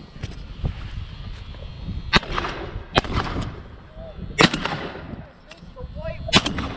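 Four shotgun shots, one to two seconds apart, each ringing out briefly.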